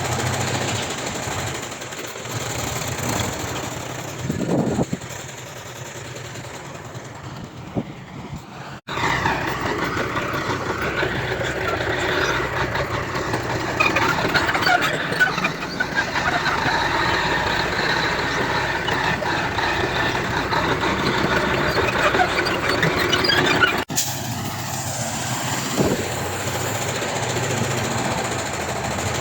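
Heavy diesel earthmoving machinery working, engines running steadily. The sound changes abruptly twice, about a third of the way in and near the end, where the footage is cut.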